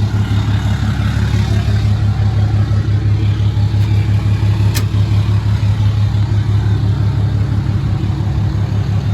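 Dodge Ram pickup's engine running steadily under way while it tows a loaded gooseneck trailer, with one sharp click a little under five seconds in.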